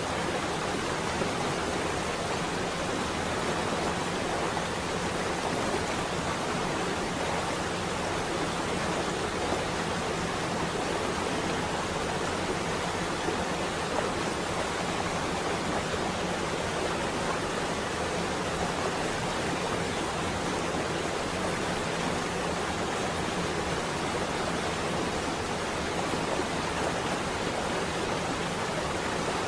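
Steady rain on a window pane: an even, unbroken hiss.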